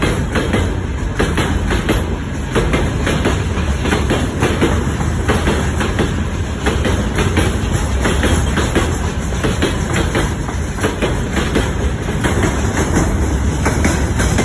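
Freight train of open gondola wagons passing close by, with a steady low rumble and the wheels clattering irregularly over the rail joints.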